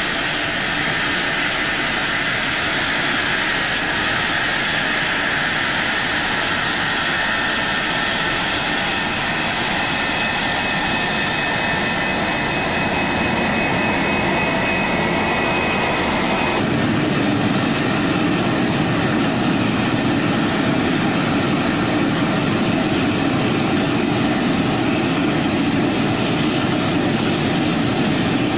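Jet airliner engines running: a steady loud roar with high whining tones over it. About two-thirds of the way through, the sound cuts abruptly to a deeper, duller roar without the whine.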